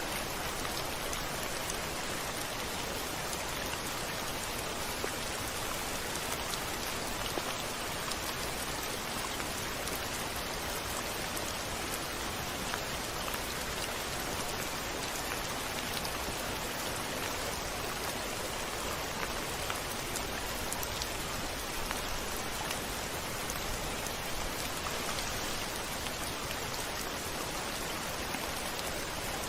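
Steady rain on a window, an even hiss scattered with many small sharp drop ticks.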